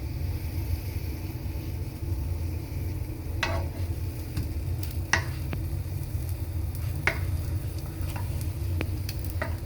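Egg-dipped bread frying in a pan over a steady low rumble, with a few short scrapes and clinks of a utensil against the pan.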